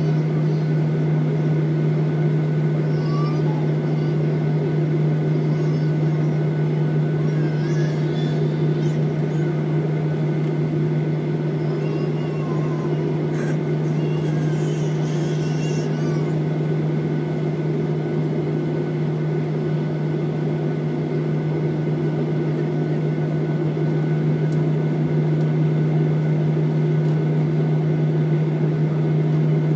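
Steady cabin drone of a Boeing 737 airliner heard from inside the cabin: the jet engines and air system holding a constant low hum with a few steady higher whining tones, with no rise or fall.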